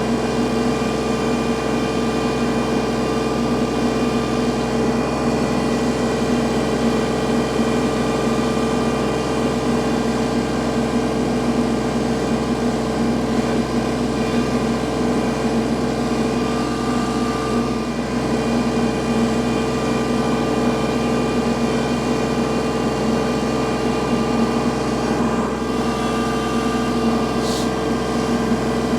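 Kubota L3301 tractor's three-cylinder diesel engine running at a steady speed while clearing snow, its pitch holding constant throughout.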